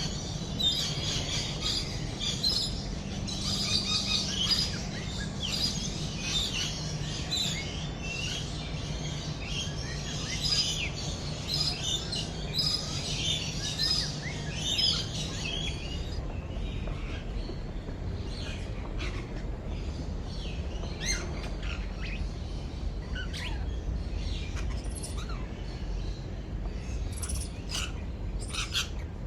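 Many birds chirping and calling together, a dense, rapid chorus of high chirps that thins to scattered single calls about halfway through, over a faint low steady hum that stops at the same point.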